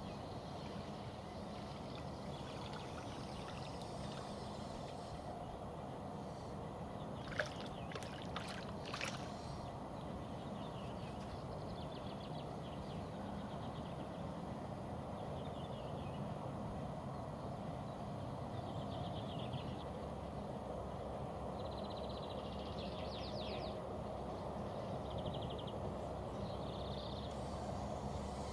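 Riverbank ambience: a steady low rushing background with short birds' trills repeating through it. A few sharp clicks come about seven to nine seconds in.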